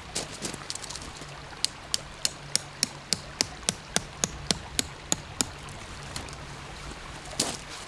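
Hammering: a quick, even series of sharp blows, about three a second, starting about a second and a half in and stopping after some four seconds, with a few looser knocks around it.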